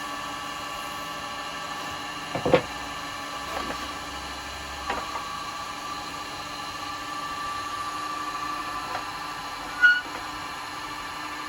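Wood lathe running steadily with no cut being made, under a few sharp knocks: a loud one about two and a half seconds in, lighter clicks around the middle, and another loud one near the end.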